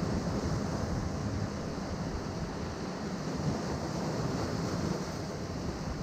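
Ocean surf washing against a rocky shore: a steady, continuous rush of waves with a deep rumble underneath.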